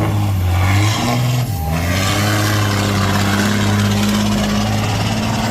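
Pull truck's engine running loud and steady. Its pitch drops sharply about a second and a half in, then climbs back and holds.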